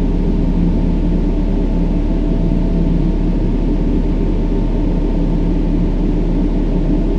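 Steady brown noise: an even, deep rushing hiss weighted to the low end, with faint steady low tones in it.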